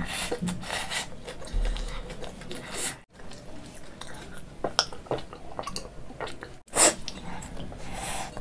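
Close-miked chewing of spicy noodles, with wet mouth clicks and smacking sounds. The sound breaks off sharply twice, about three seconds in and near the end.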